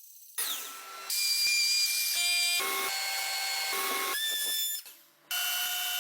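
Woodworking power tools running in a quick series of short clips, each a steady machine whine over a hiss at its own pitch, cut off abruptly as the next begins.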